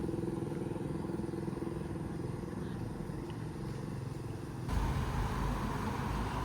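Motor vehicle engine running on the road, a steady rumble with a humming tone; nearly five seconds in it changes suddenly to a louder, deeper rumble with a higher steady whine.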